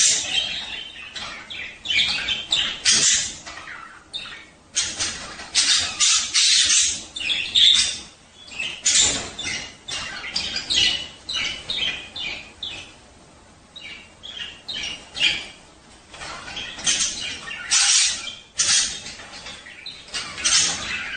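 Budgerigars chattering in quick, irregular bursts of chirps and harsh squawks, with short lulls. It is the breeding-time chatter of male budgies.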